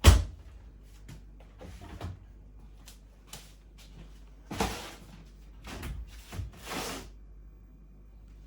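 A door bangs shut sharply, then come scattered softer knocks and rustling as things are handled.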